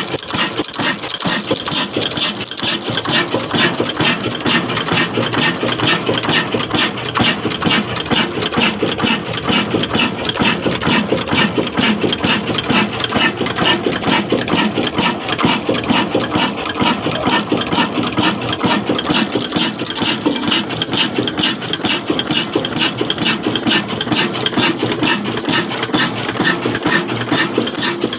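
Old single-cylinder black diesel engine running steadily with a fast, even beat, driving a small flour mill.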